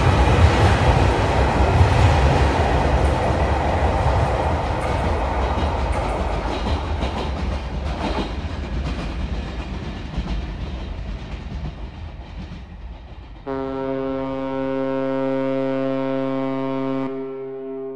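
Electric train running along the track past the platform, its wheel and running noise fading steadily as it pulls away. After a sudden cut, a ferry's horn sounds one long, steady, low blast that dies away near the end.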